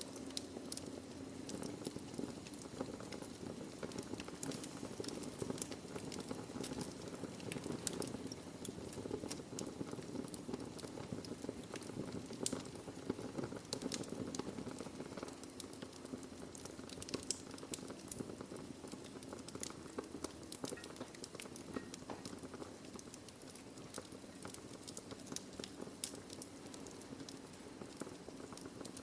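Wood fire burning in a fireplace: a steady low hiss and rustle of burning logs with frequent, irregular sharp crackles and pops.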